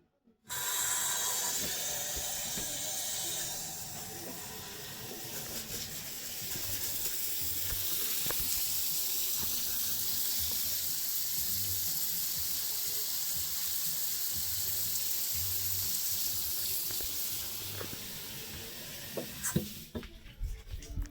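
Shower water turned on suddenly about half a second in and running steadily onto a newly tiled shower floor, then shut off near the end, followed by a few knocks.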